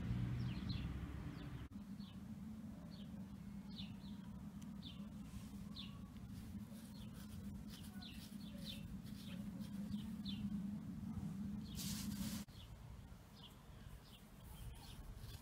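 Birds chirping again and again in short, high notes. A steady low hum runs underneath and stops about twelve seconds in, just after a brief rush of hiss.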